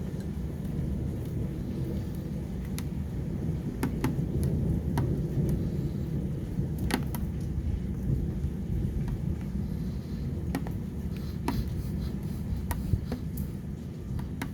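Storm wind buffeting the microphone as a steady low rumble, with scattered sharp clicks throughout.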